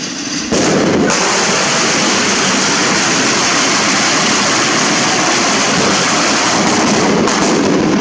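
Fireworks going off in a loud, dense, continuous crackle that starts suddenly about half a second in, holds steady for around seven seconds, and cuts off just before the end.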